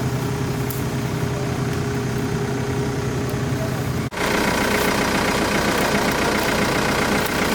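Excavator engine running steadily. About four seconds in it breaks off abruptly and picks up again louder and rougher.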